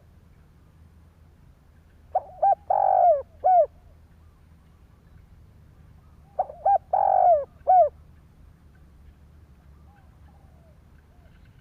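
Spotted dove cooing: two phrases about four seconds apart, each a few short coos followed by one longer drawn-out note.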